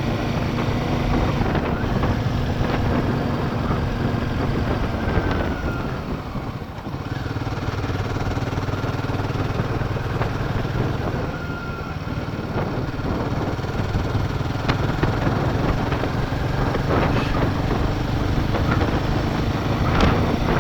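Royal Enfield Himalayan 450 motorcycle engine running steadily while riding, easing off briefly about six seconds in.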